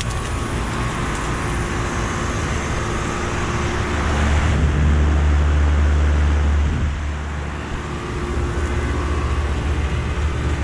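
Outdoor unit of a Lennox mini-split heat pump running in cooling mode: a steady fan and compressor hum, with a louder low rumble for a couple of seconds around the middle.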